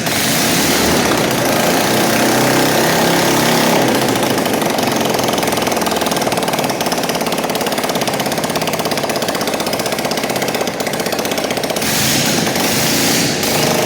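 Motorcycle engine running loudly at high revs, its exhaust a rapid, even pulsing.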